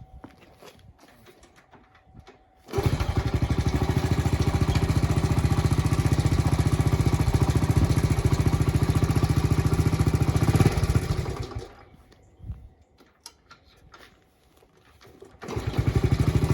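1972 Honda CT70H's small single-cylinder four-stroke engine cold-started without choke: after a few faint clicks it catches suddenly and runs with a steady rapid beat for about eight seconds, then dies away. A few seconds later it starts again and runs near the end.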